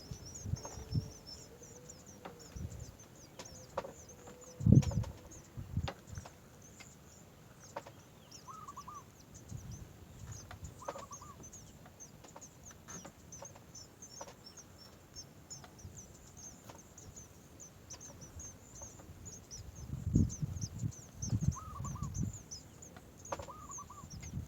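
Birds chirping: a steady stream of quick high chirps, with a few short lower calls now and then. Several dull thumps, the loudest about five seconds in and a cluster near the end.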